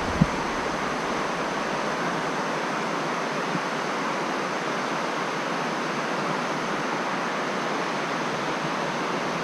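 Steady rushing of flowing stream water, an even hiss with no low rumble, and a single small click just after the start.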